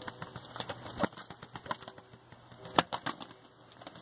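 A few sharp taps or knocks, the loudest about a second in and near three seconds, with softer ticks between them.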